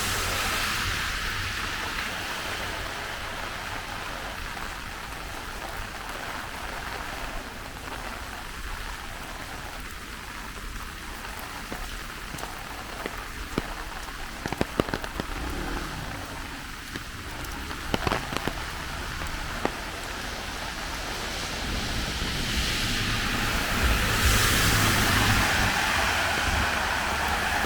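Heavy tropical rain falling steadily on flooded streets, with a few sharp drip-like clicks in the middle. Near the end a vehicle's tyres on the wet road swell up as it comes closer.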